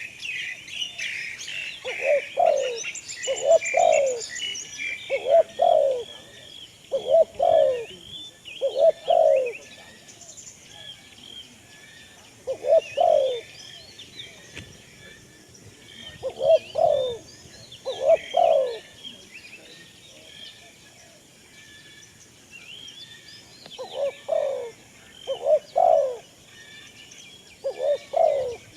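Birds calling: a low double-note call repeats in short runs, over steady chirping and twittering from small birds that is busiest near the start.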